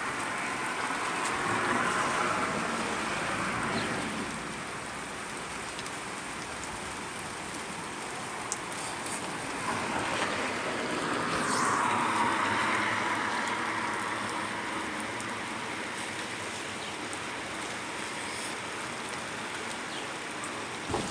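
Steady rain falling, with two passing cars hissing by on the wet road, one about a second in and another around ten seconds in.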